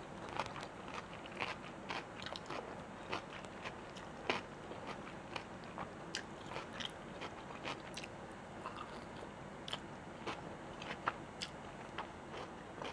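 A person chewing and biting food close to the microphone, with many short, irregular crunches, more frequent in the first half.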